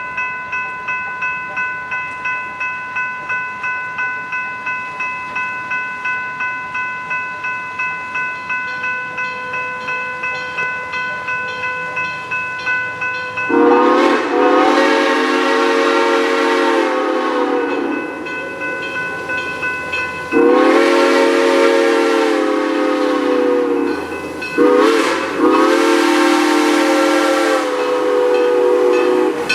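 Grade-crossing bell ringing steadily at about two strokes a second. Then the steam whistle of Great Smoky Mountains Railroad 2-8-0 #1702 sounds the crossing signal: two long blasts, a short one and a final long one.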